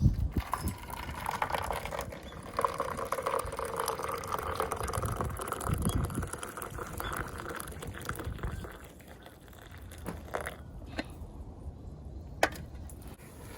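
Liquid poured steadily into a container for several seconds, stopping about eight seconds in, followed by a few light knocks.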